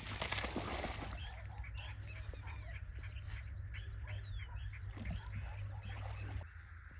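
Animals calling: many short, high chirps in quick succession over a steady low rumble, with a burst of rustling noise at the start.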